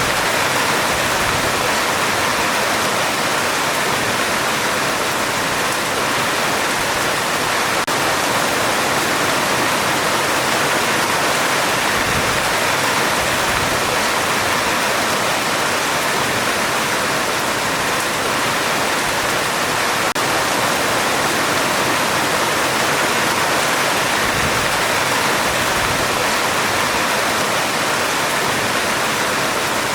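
Heavy rain falling steadily on a metal roof: a dense, even hiss with no break.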